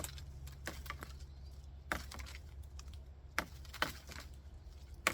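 A small stick tapped against a small sapling trunk: a handful of sharp, dry knocks at uneven intervals.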